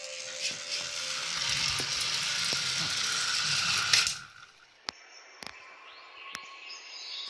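A small mechanism rattling and whirring for about four seconds, stopping abruptly, then a few separate sharp clicks.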